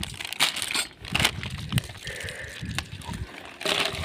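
Plastic snack packet crinkling and rustling as it is torn open and its contents are shaken out, with light knocks.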